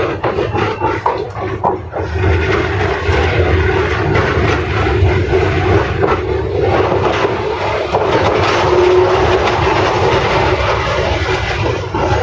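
71-623-00 tram car running along the track: a steady rumble of wheels on rails mixed with traction-motor noise, stepping up about two seconds in.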